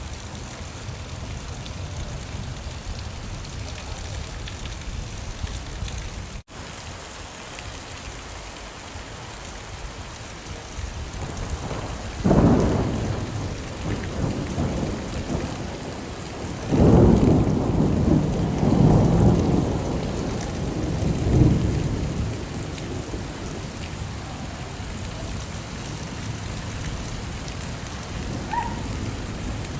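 Steady rain falling, with thunder: a sudden low crack about twelve seconds in, then a longer rolling rumble a few seconds later. The rain sound drops out for an instant once, early on.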